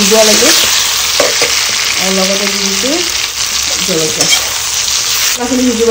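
Potatoes, onions and tomatoes frying in hot oil in a metal kadai, sizzling steadily while a flat metal spatula stirs and scrapes them around the pan. This is the masala base being fried with turmeric.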